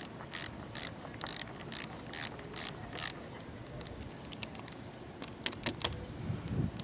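Socket ratchet wrench clicking in about eight short strokes a little under half a second apart, then a few quicker clicks near the end, tightening the positive battery cable clamp onto its terminal.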